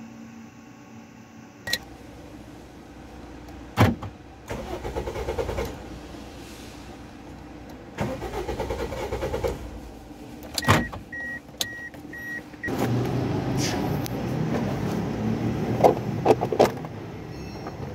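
Toyota Vios starter cranking the engine in several attempts, with no sign that it catches: the car has a hard-starting fault and will not start. Sharp clicks come between the tries, and about two-thirds of the way through there are four short beeps.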